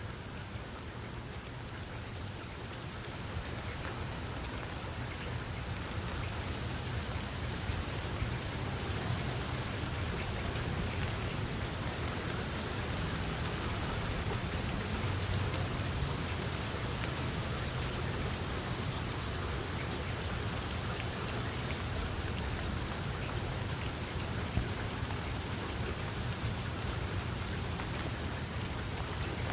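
Steady rain falling, an even hiss of drops with scattered faint ticks and a low rumble underneath, building slightly over the first few seconds and then holding steady.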